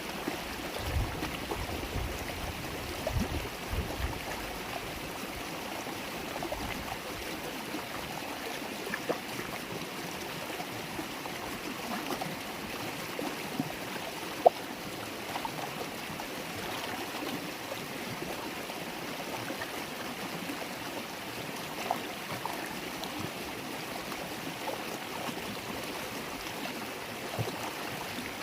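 River water babbling and flowing steadily over rocks, with a few brief louder splashes. Low gusts of wind buffet the microphone in the first few seconds.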